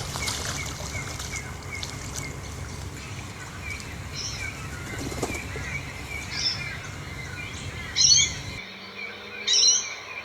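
Birds calling: a quick, steady run of small high chirps, with two louder, sharper calls near the end. A low rumble underneath stops shortly before the end.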